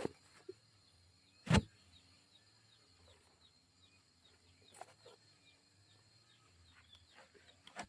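Birds chirping in a steady run of short, falling chirps, with one loud knock about a second and a half in and a few lighter clicks later.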